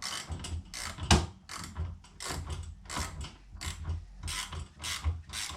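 A wrench tightening a nut on a metal bench frame, in quick, even clicking strokes of about three a second.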